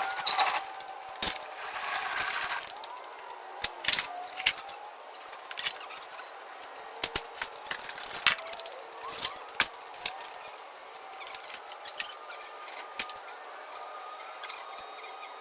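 Clatter of workshop junk being handled: scattered knocks and clinks of tools, parts and other objects being picked up and set down, with a denser stretch of noise about a second in that lasts about a second and a half.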